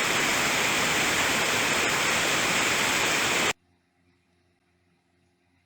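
Steady loud rush of a waterfall, which cuts off abruptly about three and a half seconds in, leaving near silence with a faint hum.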